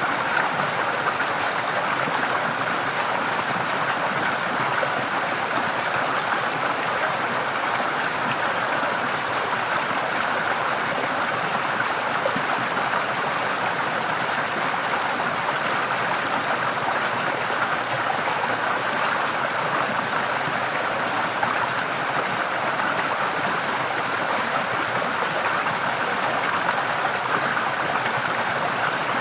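A forest stream flowing steadily: an even rushing of running water with no breaks.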